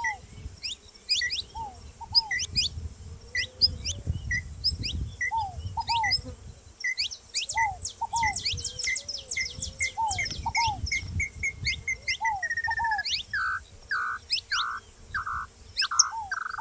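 Saffron finch calling: a steady stream of sharp chirps that quicken into a rapid series midway. Near the end comes a run of lower, longer notes.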